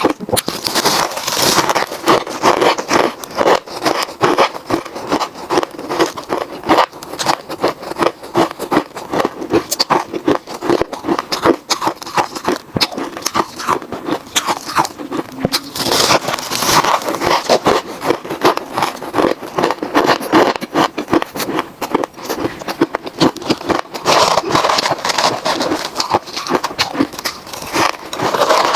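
Ice being chewed close to the microphone: a dense, unbroken run of sharp crunches and cracks, with louder bouts about a second in, around the middle and near the end.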